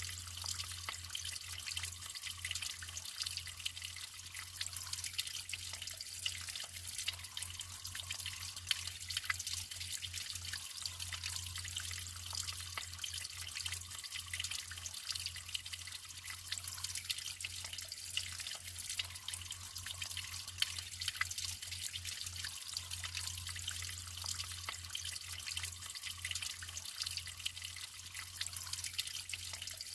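Natural running water trickling and splashing steadily, with many small drips and droplet ticks. A steady low hum runs underneath.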